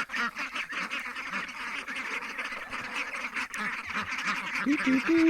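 A flock of ducks quacking and chattering, many calls overlapping without a break, with a few louder, lower calls near the end.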